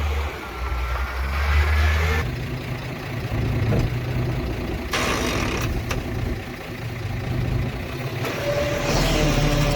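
Diesel engines of heavy earthmoving machinery running, their steady low hum changing abruptly several times, with a short hiss about five seconds in.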